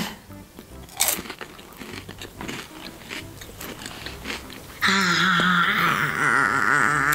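Crunchy biting and chewing of a Kinder Happy Hippo wafer snack, with a sharp crunch about a second in. About five seconds in, a loud, long held voice-like tone with a wavering pitch takes over.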